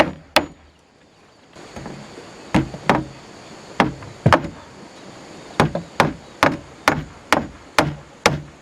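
Wood being chopped with a hand tool: sharp, evenly spaced strikes, about two a second, with a pause of about two seconds near the start.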